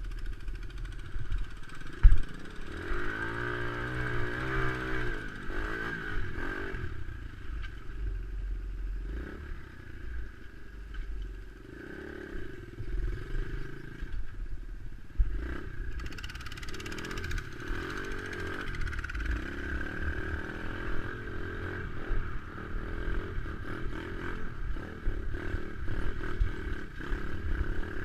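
Dirt bike engine running under load on a rough trail, revving up and down as the throttle changes, with a sharp knock about two seconds in.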